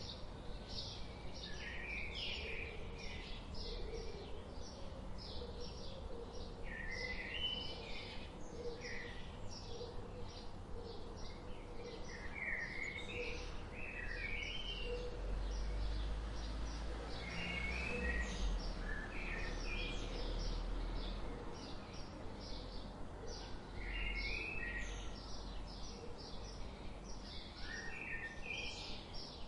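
Songbirds chirping and singing: a steady patter of rapid short chirps with warbling phrases every few seconds, over background noise with a low rumble that swells in the middle.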